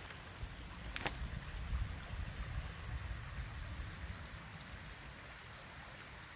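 A low, gusting rumble of wind buffeting the microphone, with one crunching footstep in snow about a second in.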